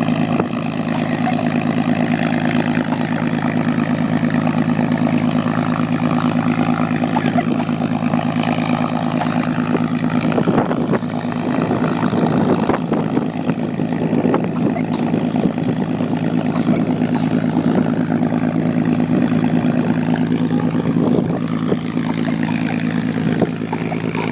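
Aircraft engine running steadily at close range, a loud, even drone with a little more noise mixed in from about ten to fourteen seconds in.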